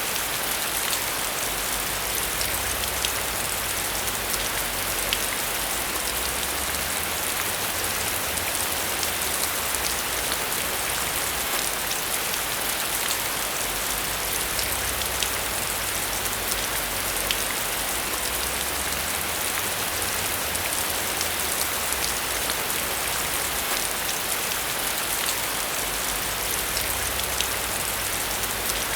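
Steady rain pattering on a surface, an even hiss with many small drop ticks.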